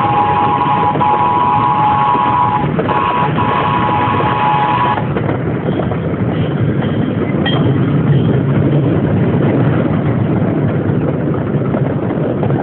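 Miniature ride-on train running along, a steady rumble and rattle with wind noise on the microphone. A steady two-note tone sounds through the first five seconds, breaking briefly near three seconds.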